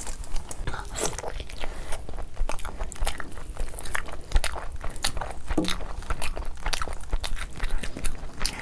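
Close-miked eating sounds of a person chewing and biting chicken curry on the bone: many quick, irregular wet mouth clicks.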